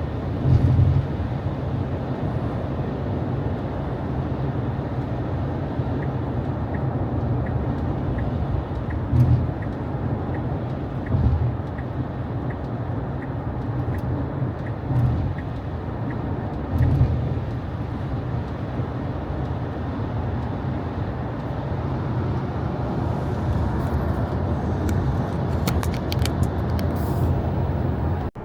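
Road noise inside a Tesla's cabin on a rain-soaked road: steady low tyre rumble and water spray with occasional swells, and no engine sound from the electric drive. For several seconds in the middle, the turn signal ticks faintly and regularly during a lane change.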